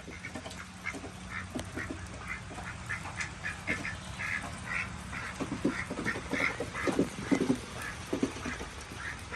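Pet ducks quacking in a rapid, overlapping run of short calls, with a burst of louder, lower quacks in the second half.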